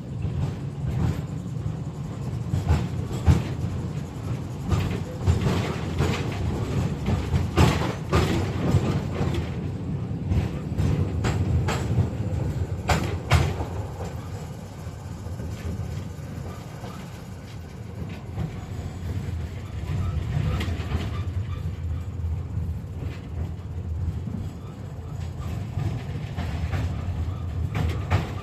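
KTM-5M3 (71-605) tram running along the track, heard from inside the car: a steady low rumble with sharp knocks and clatter of the wheels over the rails, thickest in the first half.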